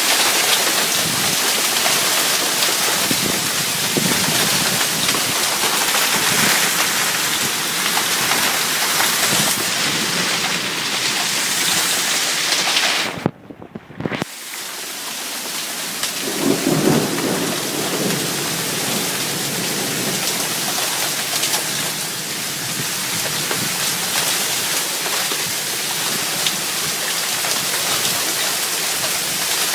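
Heavy rain pouring steadily in a thunderstorm. The sound briefly cuts out about halfway through, and a low rumble of thunder follows a few seconds later.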